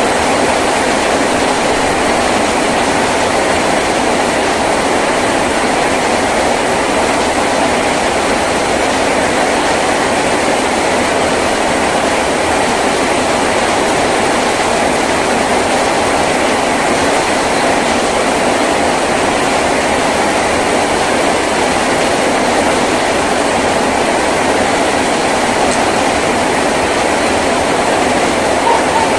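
Heavy rain drumming steadily on a tin roof, a dense, unbroken patter with no letup.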